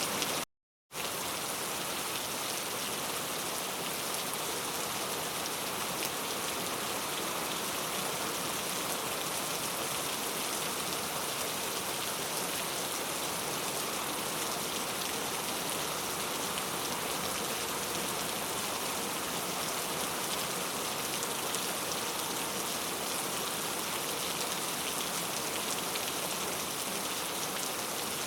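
Steady rain falling, an even hiss of drops on surfaces. The sound cuts out completely for about half a second near the start, then resumes unchanged.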